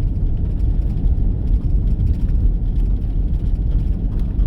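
Steady low rumble of a vehicle driving along a road, the engine and tyre noise of the vehicle he is riding in.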